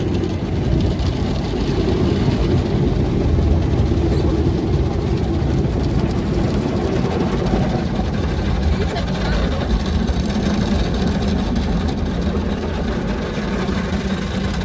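Steady low rumble heard from inside a car's cabin, with an even noisy hiss above it: the car riding through an automatic car wash, or driving on.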